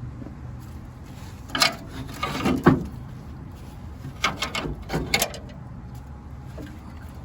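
Tools and metal parts clanking and rattling while engine-bay components are taken off a car, in short clusters about a second and a half in, around two and a half seconds, and again between four and five seconds in.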